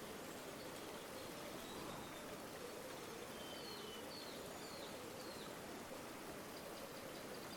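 River water flowing in a steady, faint rush. A small bird gives a few short high chirps around the middle, and a quick high trill begins near the end.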